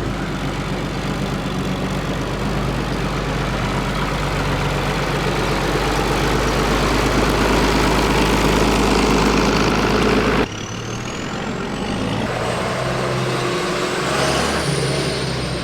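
Vintage tractor engines running steadily and slowly getting louder. About ten seconds in, the sound changes abruptly to a quieter engine running, with a faint high whine rising in pitch.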